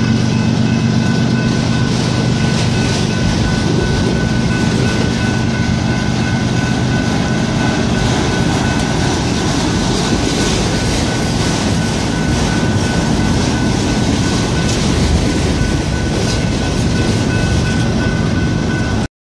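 Freight train of autorack cars rolling past close by: a steady rumble and rattle of wheels and car bodies on the rails, with a faint steady high ring above it. It cuts off suddenly near the end.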